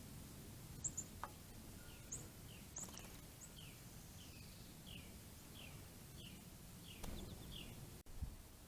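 Faint songbird calls: a steady series of short downslurred chirps, about two a second, with a few higher sharp chips. A soft low thump comes near the end.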